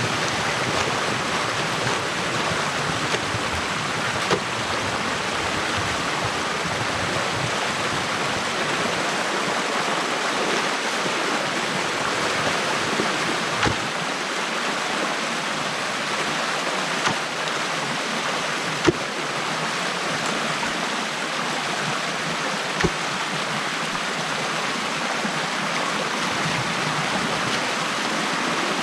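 Stream water running steadily through a breach in a beaver dam. A few short, sharp knocks are scattered through it.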